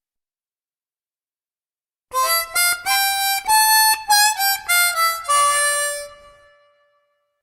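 Harmonica playing a short riff of quick notes, starting about two seconds in and ending on a held note that fades away.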